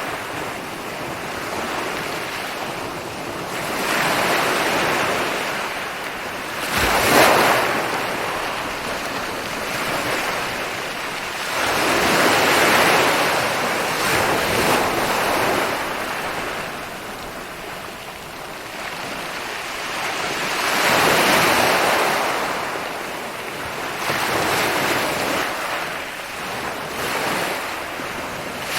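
Ocean waves rolling in and breaking on a beach, surging and falling back in swells every few seconds, with the sharpest crash about seven seconds in.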